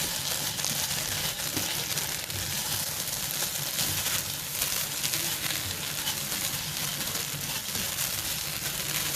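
Rice and vermicelli sizzling steadily in a hot pan as tomato paste is stirred through them.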